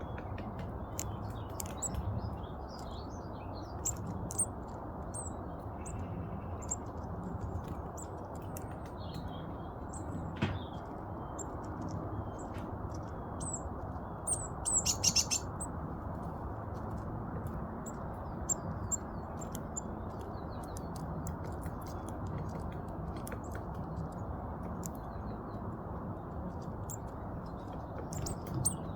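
Small garden songbirds giving short, high chirps and calls scattered throughout, with a quick run of louder calls about halfway through. Under them runs a steady low background rumble.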